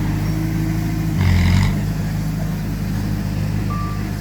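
Heavy diesel earthmoving machinery running steadily. About a second in there is a brief louder surge, and near the end a single short beep sounds.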